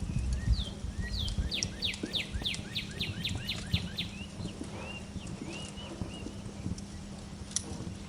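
A songbird sings a quick run of descending whistled notes, about four a second, from about one to four seconds in, with softer chirps before and after. Underneath are the low pops and crackle of a wood fire.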